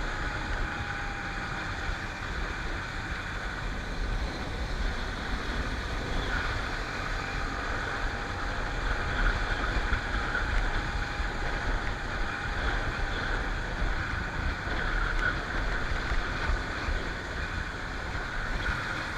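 Honda Tornado 250 motorcycle riding at a steady speed: a low engine rumble under steady wind rush on the microphone.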